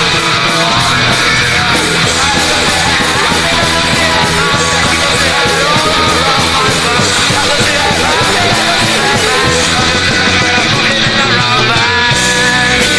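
Loud, punk-edged rock band music: drums keep a steady beat under bass and electric guitar, with the low end briefly thinning out near the end before the full band comes back in.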